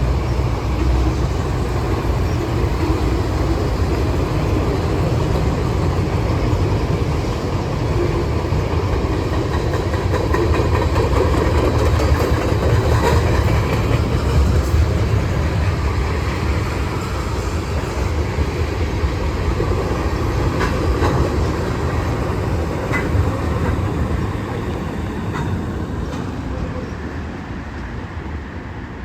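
A long train of freight cars rolling past with a steady rumble, the wheels clicking and clacking over the rails. The sound fades away in the last few seconds as the train moves off.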